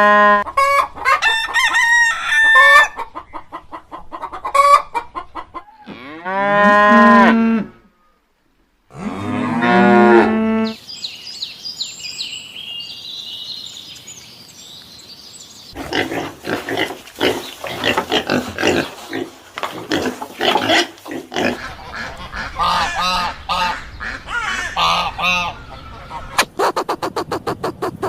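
A run of different animal calls one after another: several loud honk-like calls, then high chirping, then fast rasping and clicking calls.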